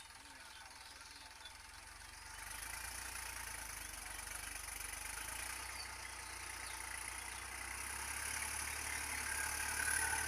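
Sonalika tractor's diesel engine running steadily, growing louder about two seconds in and again toward the end.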